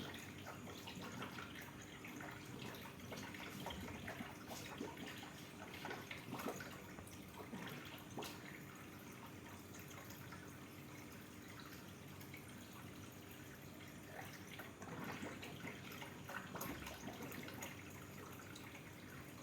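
Aquarium water trickling and dripping faintly, over a low steady hum.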